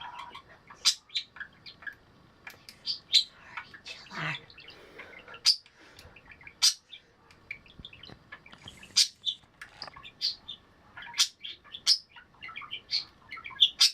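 A bird chirping over and over: short, sharp, high chirps at irregular intervals.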